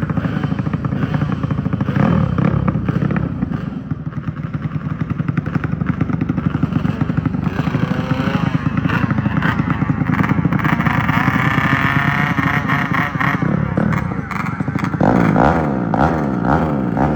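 Motorcycle engine running and revving, its pitch climbing as it accelerates; near the end it is loudest, with several quick rising sweeps.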